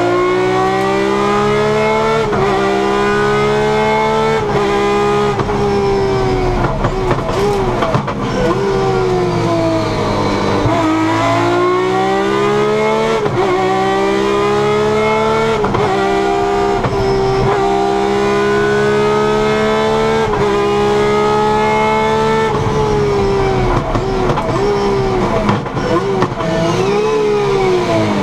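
Rally car engine heard from inside the cabin, driven hard through the gears: its pitch climbs and drops sharply at each upshift, again and again. It slows and falls in pitch briefly in the middle, and again near the end with uneven, lower revs.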